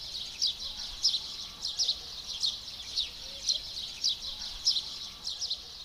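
Small birds chirping in short, falling high notes about twice a second over a steady high-pitched buzz of outdoor ambience.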